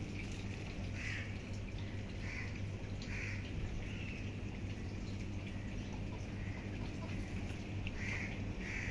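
Birds giving short chirping calls, repeated irregularly about once a second, over a steady background hiss and a low steady hum.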